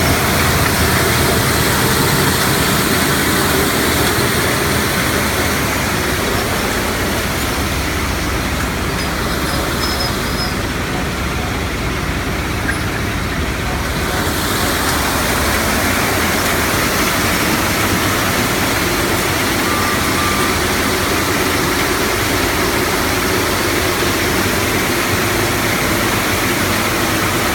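Gravel-crushing line running, making sand: a loud, steady, dense machine noise. The highest hiss thins out for a few seconds around the middle.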